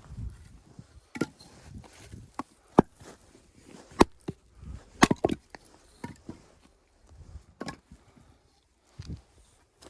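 Axe chopping firewood: about half a dozen sharp wooden knocks at irregular intervals, with quieter handling of wood between them.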